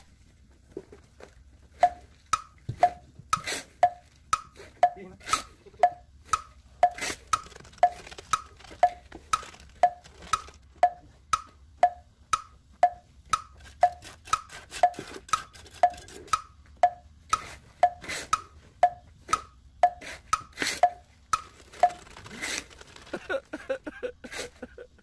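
Steady hand hammering: about two sharp strikes a second, each with a short ringing note.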